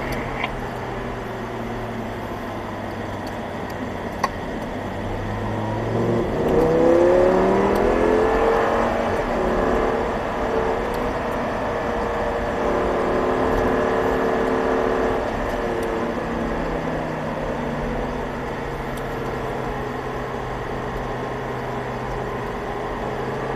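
Audi R8's V10 engine heard from inside the cabin under track driving. It pulls up through the revs about six seconds in, holds high revs, then drops back about sixteen seconds in and runs at lower revs.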